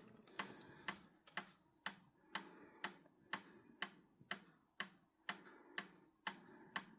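Faint, steady ticking: sharp, even ticks about two a second.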